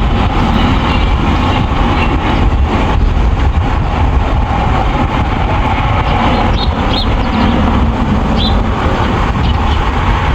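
Steady, loud outdoor rumble, like passing road traffic, with a few brief high chirps about two-thirds of the way through.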